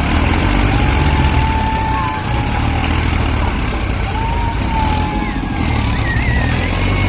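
Heavy diesel engine running steadily, with a thin wavering whistling tone that comes and goes above it.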